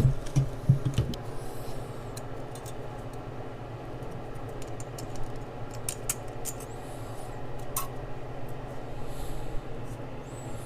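Scattered light metallic clicks and taps of hand tools and fasteners being handled during engine work, with a few knocks in the first second, over a steady low hum.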